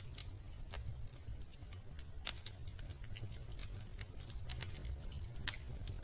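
Wood fire crackling in a fireplace: irregular sharp pops and snaps over a steady low rumble, with louder pops about two seconds in and again near the end.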